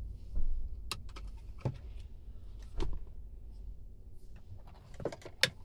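Scattered clicks and knocks inside a car over a steady low rumble; the sharpest knock comes near the end.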